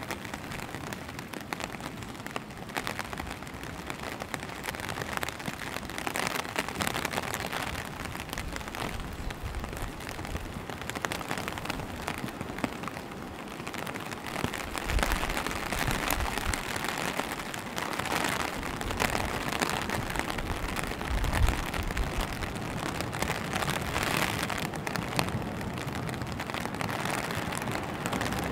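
Steady rain falling, with many small drops pattering close by. A few short low thumps come about halfway through and again a few seconds later.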